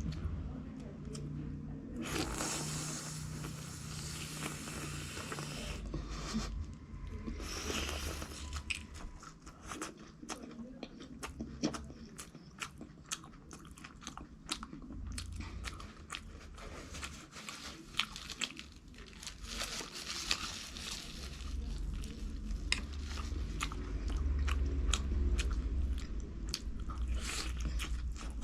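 A person biting and chewing crunchy food close to the microphone: irregular crackly crunches, with longer stretches of crunching a few seconds in.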